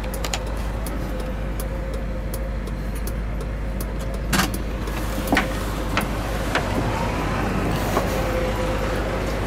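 Mercedes-Benz 500SLC's V8 idling steadily, heard from inside the cabin, with a handful of sharp clicks from the second half on.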